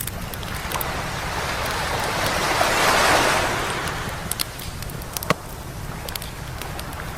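A wave washing up the beach, swelling to its loudest about three seconds in and then drawing back, while a wood campfire crackles and pops throughout, with one sharper pop about five seconds in.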